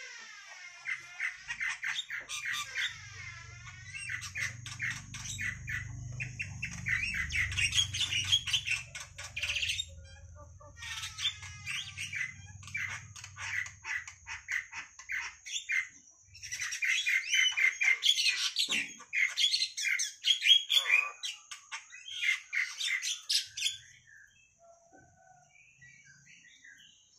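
A pet bird calling in three long bouts of rapid, repeated chirps and squawks, with a low rumble under the first half.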